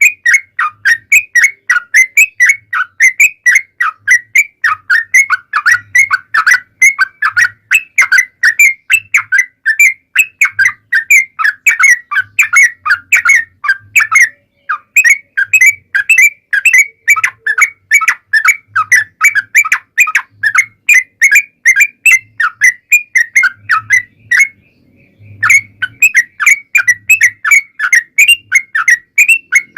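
Yellow-vented bulbul (trucukan) singing its long, rapid 'ropel' song: a fast, unbroken string of short, loud chattering notes, about four a second, with two brief breaks.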